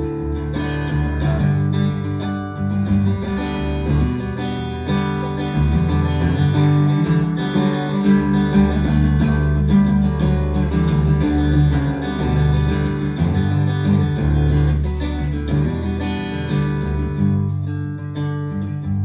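Instrumental guitar break in a live band performance of a song, with guitars strummed and picked over a steady low end, and no singing.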